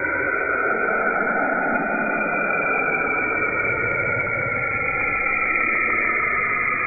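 Cassini spacecraft's Saturn recording converted to audio: a steady, eerie hiss with faint whistling tones that slowly fall in pitch.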